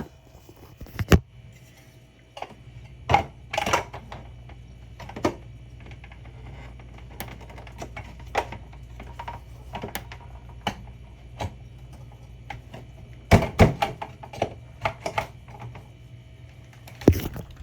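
Scattered clicks and knocks of plastic parts and items being handled while a mini fridge is cleaned, with a cluster of louder knocks near the end, over a steady low hum.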